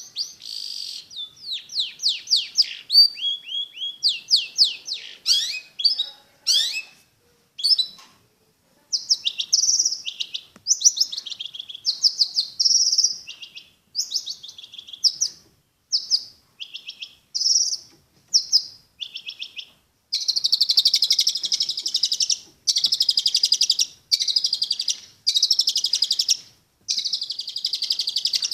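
Long-tailed shrike singing: a fast medley of chirps and sweeping notes, then, from about two-thirds of the way through, a run of harsh chattering phrases about a second and a half long with short gaps between them.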